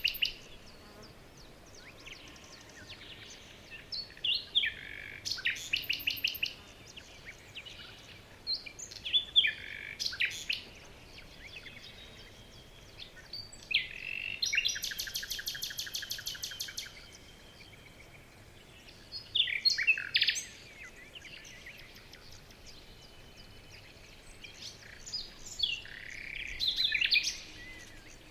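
Songbirds chirping and singing in short bursts of quick notes every few seconds, with a rapid trill of repeated notes lasting about three seconds midway.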